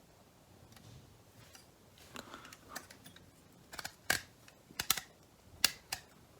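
Irregular sharp clicks and taps of small plastic parts being handled and fitted together during reassembly of a car's headlight switch, the loudest clicks coming in the second half.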